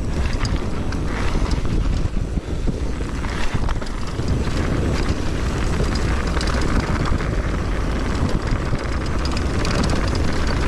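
Mountain bike descending a rough dirt trail: wind rushing over the microphone, mixed with tyre noise and scattered clicks and knocks from the bike rattling over bumps.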